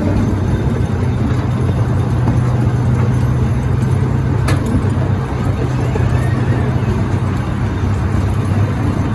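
Zoo train running, heard from aboard: a steady low engine drone over running noise, with one sharp click about four and a half seconds in.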